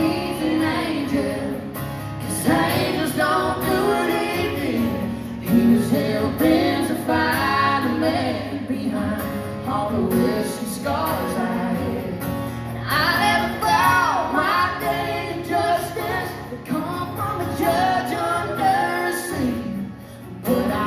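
Live country band playing with sustained singing on top, a woman's voice most prominent, heard through a concert sound system.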